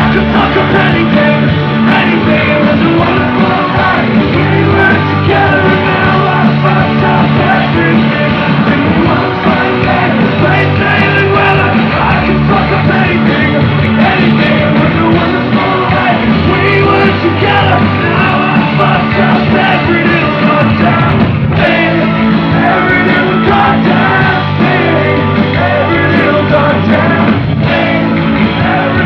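Loud live rock music from a full band playing on stage.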